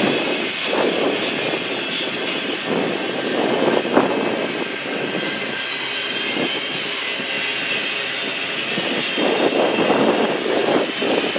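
A train rolling past on the rails, a steady rumble and clatter of wheels, with one sharp knock about four seconds in.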